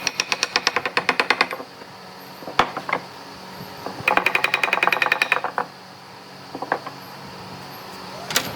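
A power tool hammering rapidly in two bursts of about a second and a half each, at roughly ten strikes a second, with a few single knocks between the bursts.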